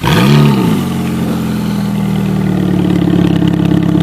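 Supercar engine firing up: it catches with a brief rev flare that rises and falls in pitch in under a second, then settles into a steady idle.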